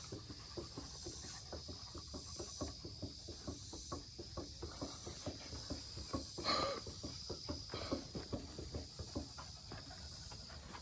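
Insects chirring steadily in the background, cricket-like, with many faint light clicks and rustles over it and one brief louder rustle about six and a half seconds in.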